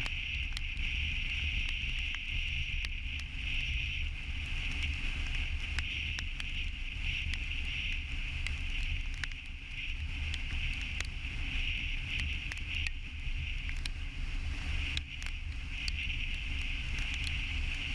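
Steady road and engine noise of a moving vehicle, heard as a constant low rumble with a steady hiss over it and scattered faint clicks.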